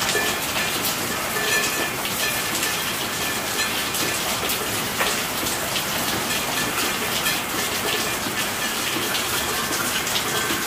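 Steady rainfall: an even hiss of rain with many small drop impacts ticking through it, unchanging in level.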